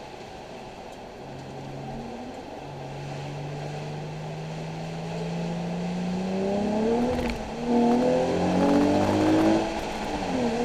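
Nissan 370Z's 3.7-litre V6 accelerating on track. The revs climb steadily, drop sharply at a gear change about seven seconds in, climb again, then fall away near the end.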